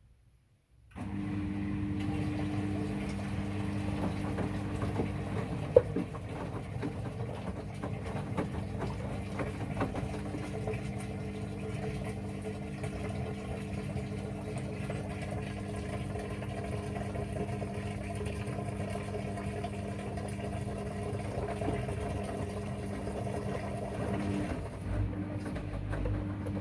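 Washing machine running: a steady motor hum that starts suddenly about a second in, with one sharp click about six seconds in and a shift in the hum near the end.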